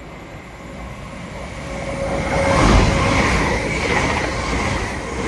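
LNER Azuma Class 801 electric train passing through the station at speed, growing louder to its peak nearly three seconds in, with rushing wheel and air noise over a steady whine.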